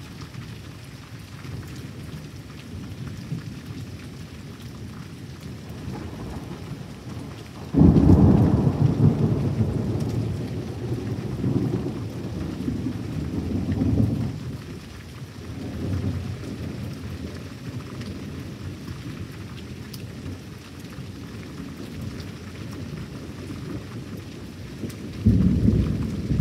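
Thunderstorm with steady rain throughout. About eight seconds in a sudden loud thunderclap breaks and rumbles on for several seconds, a fainter roll follows, and another sharp clap of thunder comes near the end.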